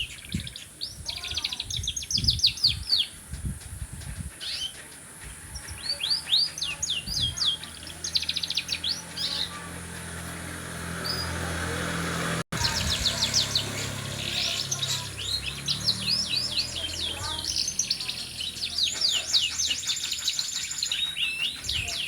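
Domestic canary singing in fast trilled phrases of rapidly repeated high notes, broken by short pauses.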